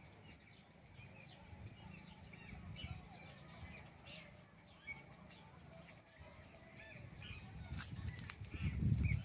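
Many birds chirping and calling in short quick notes. A low rumble builds near the end.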